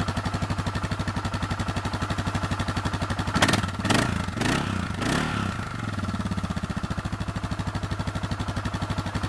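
Suzuki DR650SE's single-cylinder four-stroke engine idling with an even, pulsing beat through its stock exhaust, blipped up in a few quick revs about halfway through before settling back to idle.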